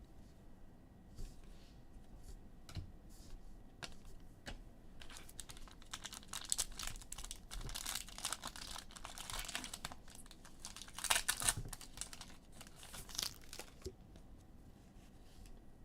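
Foil trading-card pack wrappers being torn open and crinkled. A few sharp clicks come first, then dense crinkling through the middle that is loudest about two-thirds of the way in.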